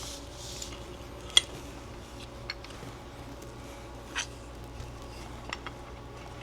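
A few small metal clicks and clinks as a pistol rear-sight pusher tool and slide are handled on a workbench, the sharpest about a second and a half in, over a faint steady hum.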